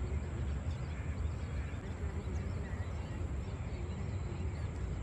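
Outdoor ambience: many birds chirping and calling over a steady low rumble.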